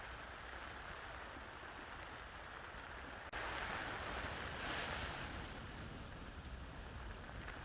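Steady outdoor hiss of wind and rain. It jumps louder suddenly about three seconds in, swells a second or two later, then eases back.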